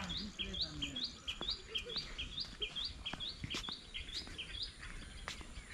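A bird calling the same short, high chirp over and over, about three times a second, fading out near the end, with a few faint clicks.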